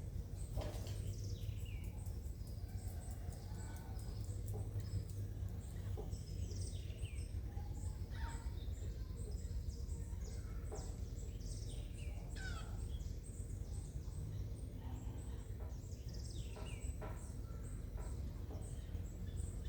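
Birds chirping: many short, quick calls that sweep downward in pitch, scattered throughout, over a steady low rumble of background noise.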